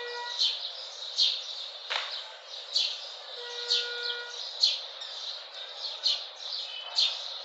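A bird chirping over and over, one short high downward-sweeping chirp a little more often than once a second, over a steady hiss. A brief lower held note sounds about halfway, and a single sharp click about two seconds in.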